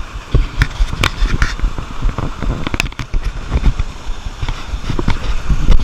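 Irregular crunches, knocks and scrapes of footsteps and handling noise while walking on a rocky trail, with low thumps, over a steady rush of waterfall water.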